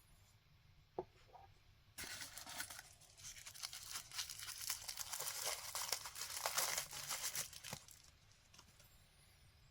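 A single click, then about six seconds of packaging being torn and crinkled as it is pulled apart by hand.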